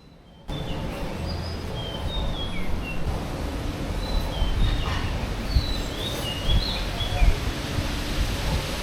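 Small birds chirping, many short repeated calls, over a steady low rumble of outdoor background noise that comes in about half a second in.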